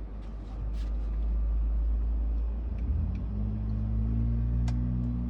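Low, steady engine-like rumble that swells about a second in and is joined by a steady hum from about three seconds in, with a single sharp click near the end.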